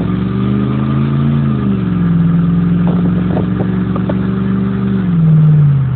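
2003 Jeep Grand Cherokee's 4.7-litre V8 running with the muffler cut off, heard loud inside the cab as the driver accelerates: the exhaust note climbs, dips about a second and a half in, holds steady, then falls away near the end.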